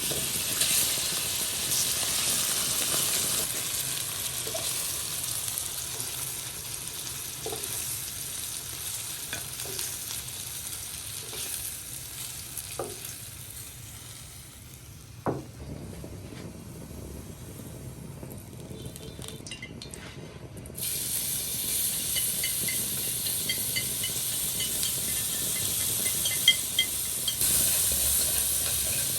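Food sizzling in hot oil in a pan and being stirred, with a few light utensil knocks. The sizzle dies down through the middle, then comes back loud all at once about two-thirds of the way through.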